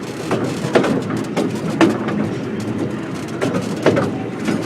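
Train running along the track: a steady rumble with sharp knocks, several of them in pairs about half a second apart, from the wheels crossing rail joints.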